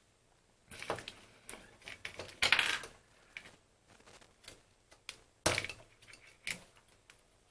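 Small parts being handled on a workbench: irregular clicks, taps and rustles, with a longer scraping rustle about two and a half seconds in and a sharp knock about five and a half seconds in.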